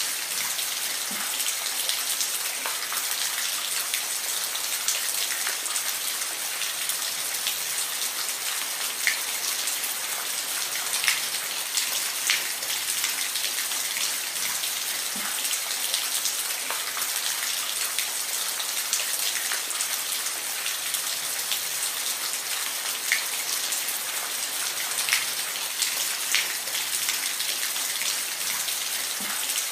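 Steady rain falling, a constant hiss with scattered individual drops ticking out above it.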